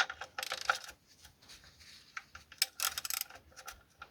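Metal clicking and clatter of a 19 mm socket wrench being fitted onto the oil pan drain plug, with two quick runs of rapid ticks.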